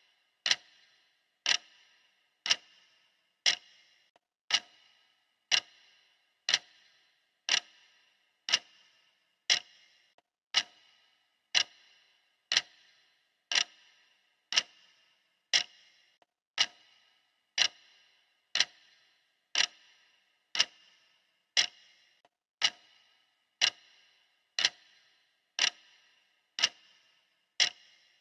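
Clock ticking steadily, one sharp tick a second, each tick ringing briefly with a bright metallic tone.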